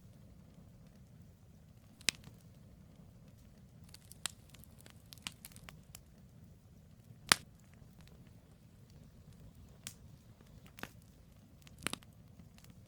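Campfire logs burning: a low steady rumble with sharp, irregular pops and crackles, a few of them loud, about 2, 7 and 12 seconds in.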